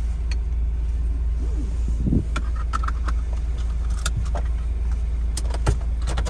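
Car engine idling steadily, heard from inside the cabin, with scattered clicks and rattles of a seatbelt being pulled and fastened.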